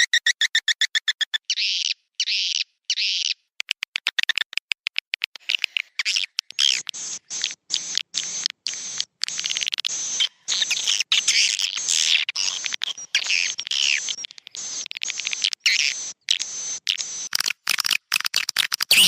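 Recorded swiftlet calls from a roosting-lure track played in swiftlet houses. It opens with a fast train of buzzy clicks, then short chirp bursts, then dense twittering chatter, all chopped by abrupt silent gaps.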